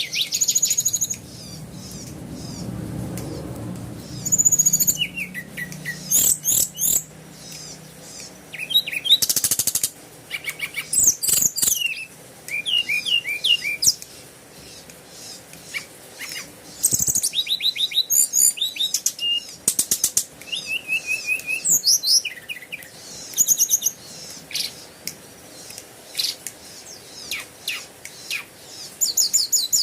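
Birds chirping and trilling: many short, quick, high-pitched calls in bouts throughout. A faint low hum sits under them in the first half, fading out about halfway through.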